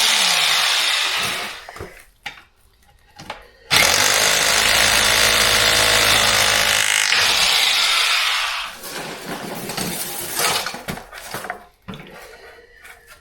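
An electric power tool running in two long bursts, cutting or driving into the floor work. It stops about a second and a half in, starts again abruptly near four seconds, runs about three seconds and winds down. Scattered knocks follow.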